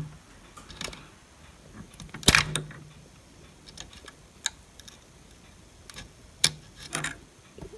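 A few scattered light clicks and taps from handling the home theater's power supply circuit board. The sharpest comes about two seconds in and another near the end.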